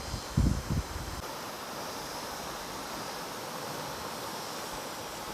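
Steady outdoor rushing hiss, with a few heavy low thumps about half a second in.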